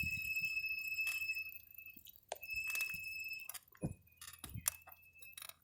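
Light metallic clinking and jingling, a run of sharp clicks with a thin high ringing tone under them.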